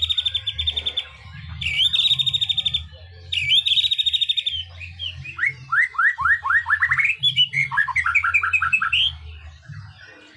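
White-rumped shama (murai batu) singing: three fast rattling trills of about a second each, then a run of quick rising whistled notes and a string of short repeated phrases.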